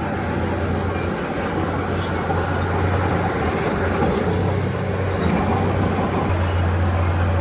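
Diesel engine of a Komatsu D31P crawler bulldozer running steadily with a low drone that eases off briefly a couple of times, with faint high squeaks over it.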